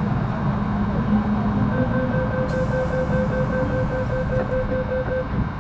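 Door-closing warning beeps inside an MTR Metro Cammell M-Train car, a rapid pulsing tone about five times a second from about two seconds in until near the end. A hiss of air comes in the middle, over the train's steady low hum.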